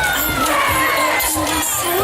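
Spectators cheering, with many high children's voices shouting over one another. Music plays beneath the crowd, with a short run of repeated low notes in the middle.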